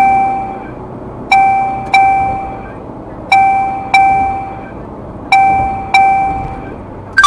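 Electronic speed-camera warning beeps from the in-car navigation unit: a pair of identical ding tones repeating every two seconds, alerting to a speed camera ahead with a 50 km/h limit. Steady road noise runs underneath, and a voice prompt starts at the very end.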